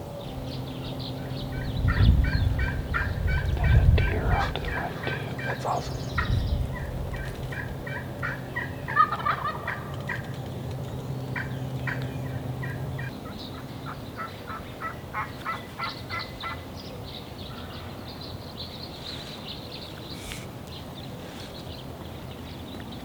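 Wild turkeys gobbling in several bouts, each a fast rattling string of notes. A steady low hum runs under the first half, and there are loud low thumps about two and four seconds in.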